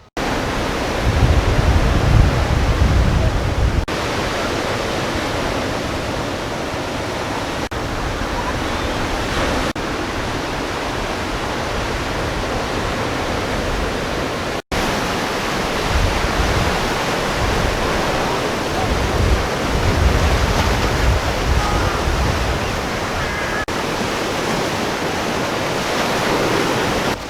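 Steady rush of surf and wind at a rough ocean inlet, with heavy gusts buffeting the microphone about a second in and again past the middle. The sound cuts out for an instant about halfway.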